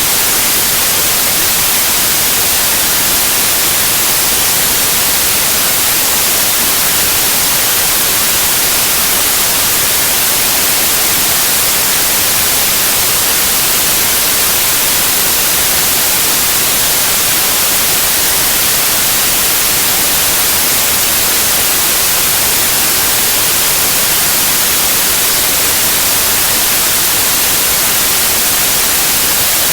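White noise: a steady, even hiss, brightest in the treble, without any change.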